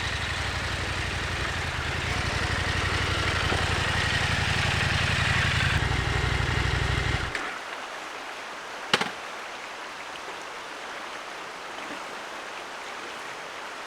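Husqvarna Norden 901's parallel-twin engine running at low speed, then shut off abruptly about seven seconds in. A stream keeps rushing after it, with one sharp knock about two seconds later.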